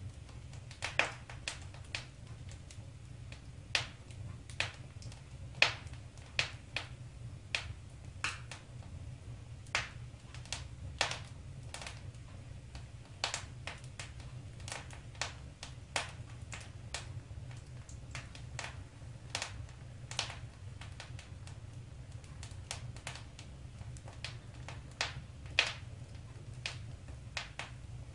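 Wood fire crackling in a fireplace: irregular sharp pops and snaps, one or two a second, over a steady low rumble of the burning fire.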